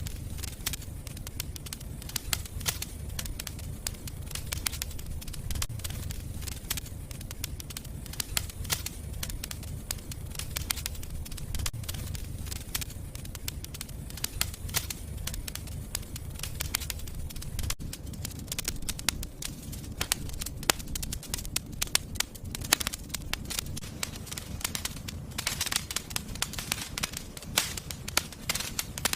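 Wood fire crackling in a fireplace: many sharp pops and snaps over a low, steady rumble of the flames.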